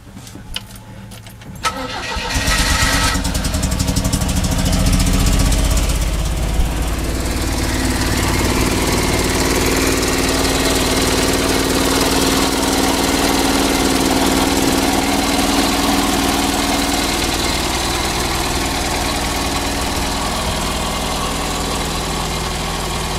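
MG car engine cranked over briefly on the starter, catching about two seconds in and running fast for a few seconds before settling to a steady idle.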